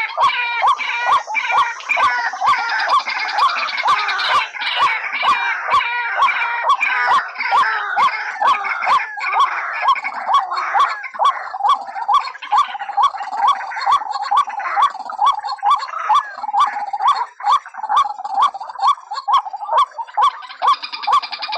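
White-breasted waterhens calling, a loud repeated call about twice a second with other calls overlapping; a bird-trapping lure call.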